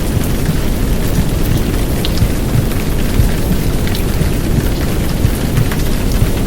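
Steady heavy downpour of rain with a deep, dense low rumble of womb sounds and white noise beneath, and faint scattered drop ticks on top.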